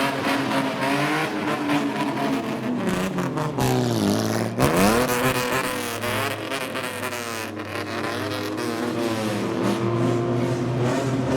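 Engine of a customised kaido-racer-style old car revving loudly; about four seconds in the revs drop and then climb sharply in the loudest burst, then keep rising and falling.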